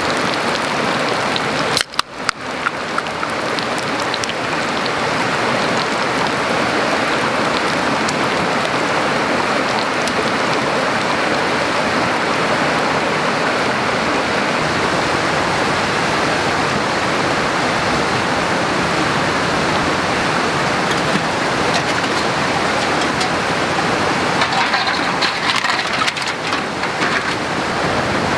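Steady rain falling, an even hiss of drops with a brief break about two seconds in.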